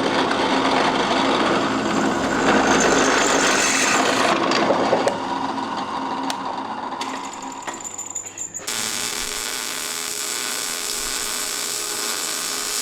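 A power tool running, its sound changing abruptly to a steadier hiss about nine seconds in.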